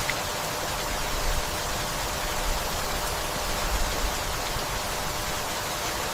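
Steady rainfall, an even hiss of rain with a few faint low rumbles partway through.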